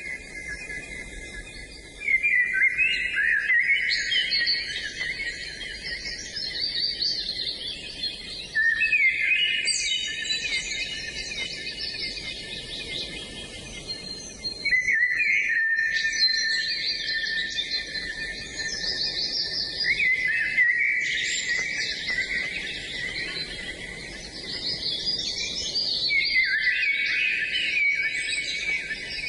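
Songbirds singing long, rapid, warbling phrases of high notes, a new phrase starting about every six seconds.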